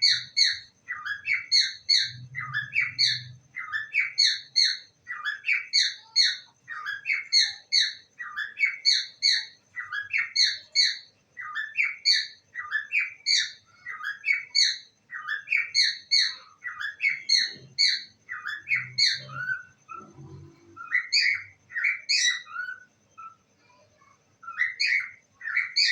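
Pet parrot chirping in a rapid, regular string of short calls, a few a second, breaking into sparser groups in the last few seconds.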